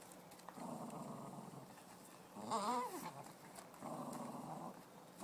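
A dog growling low in two spells, with a short, loud, wavering whine between them about two and a half seconds in.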